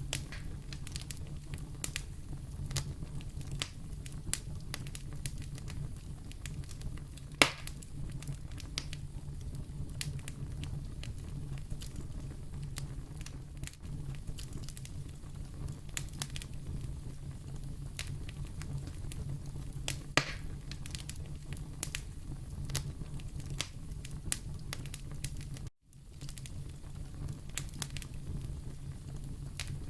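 Fire burning in a fireplace, crackling over a steady low rumble, with scattered sharp pops; the loudest pops come about seven seconds in and about twenty seconds in. The sound cuts out for an instant about four seconds before the end.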